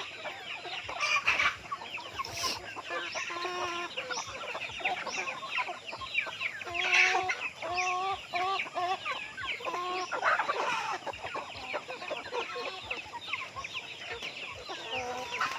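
Flock of free-range native chickens clucking, with a steady stream of quick high chirps and a few short runs of repeated clucks.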